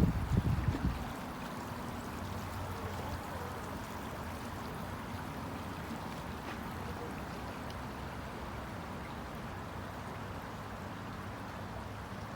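Steady rushing of a stream's flowing water, with a few low thumps in the first second.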